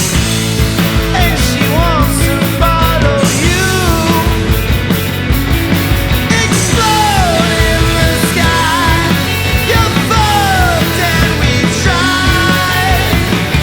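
Rock band recording in a punk-grunge style: a loud full-band mix with drums and bass under high notes that bend and slide up and down.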